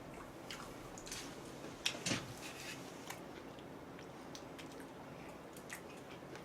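Faint chewing and wet mouth clicks of a person eating yangnyeom chicken close to the microphone: a few soft scattered clicks, one slightly louder about two seconds in.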